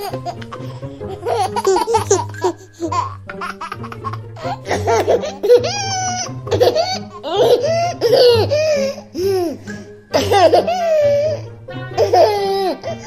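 High-pitched laughter, rising and falling in pitch, over background music with a steady bass.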